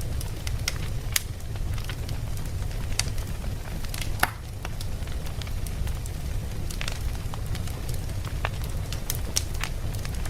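Campfire crackling: irregular sharp pops and snaps over a steady low rumble, with one louder pop about four seconds in.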